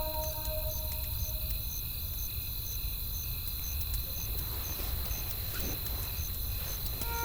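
Night-woods ambience: high insect chirps repeat about twice a second over a steady low rumble, with scattered crackles from a wood fire. A held musical chord fades out in the first second or so.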